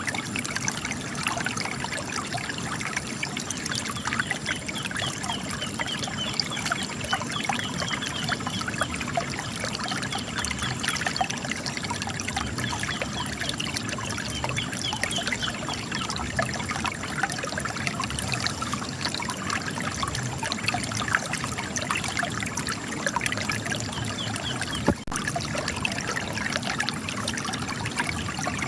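Spring water trickling and splashing as it runs out of cracks in rocks, a steady flow of many small drips and splashes. About 25 s in there is a brief click.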